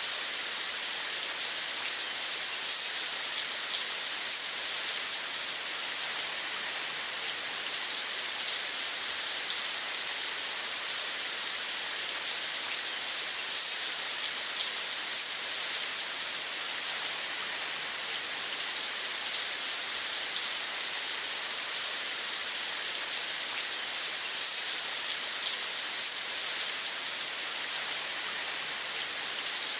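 Steady rain: an even hiss with a fine patter of drops, unchanging throughout.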